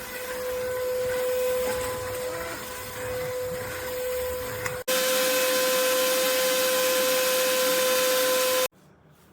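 Lodick cordless stick vacuum's motor running with a steady whine over a rushing hiss, a little louder from about five seconds in, then cutting off suddenly near the end.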